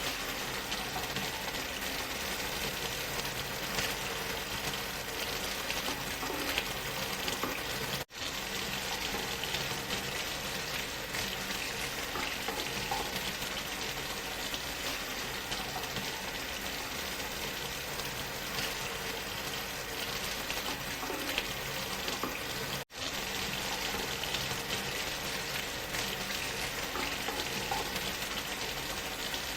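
Steady waterfall rush blended with white noise, an even hiss across all pitches. It cuts out for an instant twice, where the recording loops.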